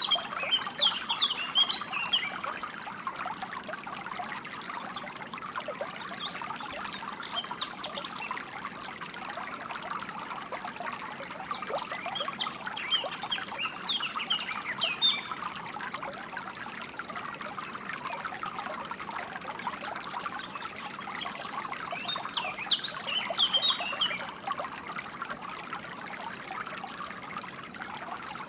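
Water trickling and babbling steadily, with bright bird chirps and song phrases breaking in four times: near the start, about seven seconds in, around twelve to fifteen seconds, and again around twenty-one to twenty-four seconds.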